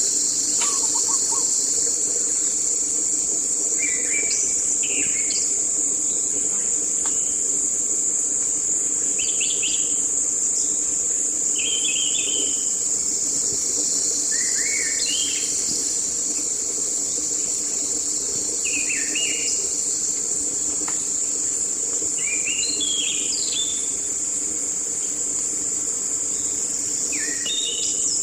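Steady high-pitched drone of an insect chorus, with short bird chirps and twitters breaking in every second or few, over a faint low steady hum.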